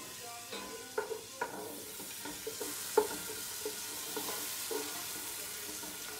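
Chopped onion and garlic sizzling in oil in a pot, starting to cook, while a spoon stirs them, with scattered clicks and scrapes against the pot. The loudest clink comes about three seconds in.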